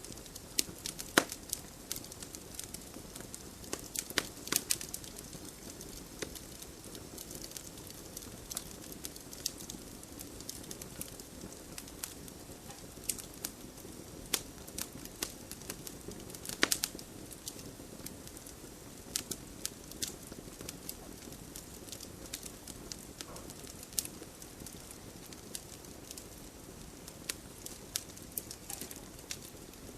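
Campfire burning steadily with irregular sharp crackles and pops of burning wood, a few louder pops about a second in, around four to five seconds and around the middle.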